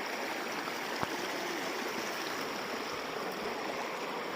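Stream water running steadily, with one short knock about a second in.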